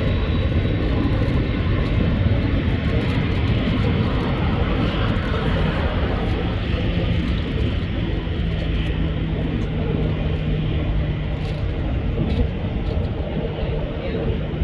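Jet airliner engines running with a steady rumble, and a steady low hum joining about six seconds in.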